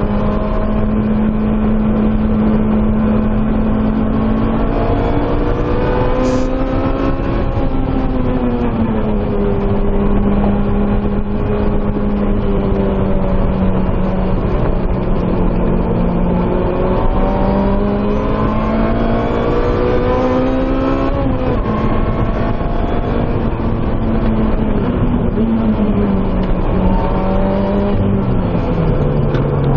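2007 Lotus Exige S's supercharged four-cylinder engine running hard at around 6,000 rpm on track. Its pitch climbs and dips several times with the throttle and falls away near the end.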